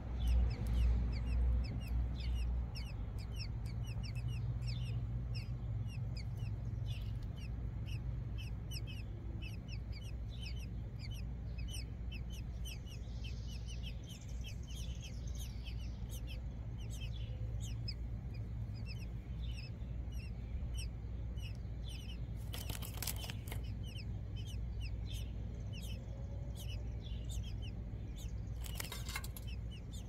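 Small birds chirping: rapid, short, high chirps repeated throughout over a steady low rumble. A brief rustle about two-thirds through and another near the end.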